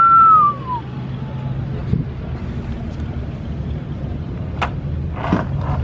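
A short, loud whistle-like tone that falls in pitch at the start, over a steady low rumble of a vehicle engine running.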